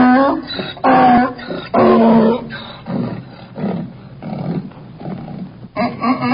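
Donkey braying: three loud hee-haw calls about a second apart, then softer, rougher pulses that trail off, and a new loud bray near the end.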